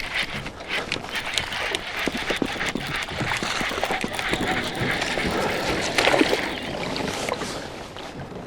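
Water moving and splashing around a fishing kayak, with irregular small knocks and clicks.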